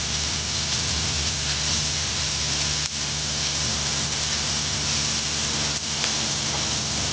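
Food sizzling in a frying pan: a steady, even hiss with faint scattered crackles, over a low steady hum.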